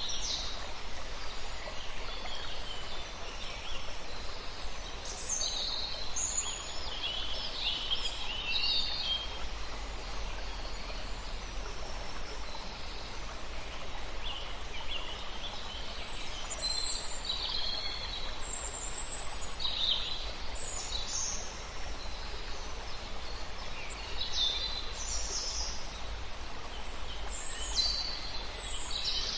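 Several wild birds calling with short, high chirps and trills at irregular intervals over a steady background hiss.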